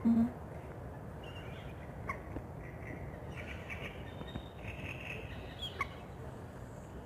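Birds calling at dawn by a lake: short high chirps and trills come and go through the middle, over a steady low background rumble. A brief, louder low call sounds right at the start.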